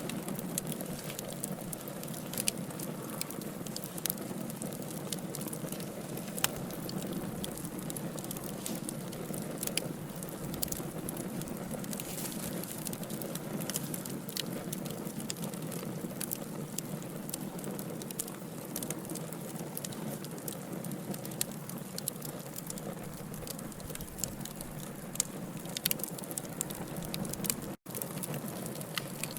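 Wood fire burning steadily: a low rush of flame with frequent small, irregular crackles and pops from the burning logs. The sound cuts out for an instant near the end.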